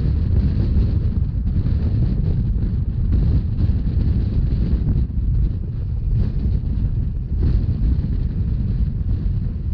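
Steady wind rush buffeting the microphone over the low rumble of a Rhaetian Railway narrow-gauge train under way.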